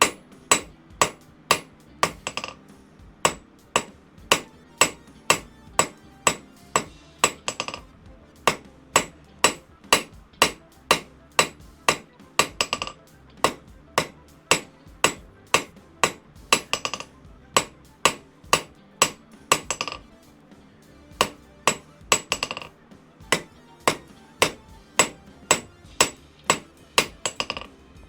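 Hand hammer striking hot steel bar on an anvil, about two blows a second, to thin one side of a small forged heart so both sides are even. Every few seconds a blow leaves a brief metallic ring.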